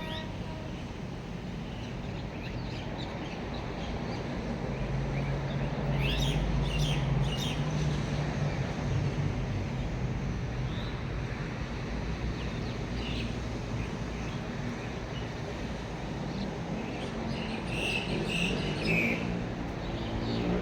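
Birds chirping in short bursts, twice, over a steady outdoor background hiss, with a low rumble that swells and fades over several seconds partway through.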